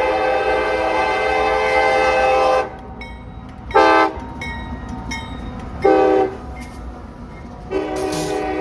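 Locomotive air horn playing a horn show: a long chord that cuts off about two and a half seconds in, two short blasts, then another long chord starting near the end, over the low rumble of the train.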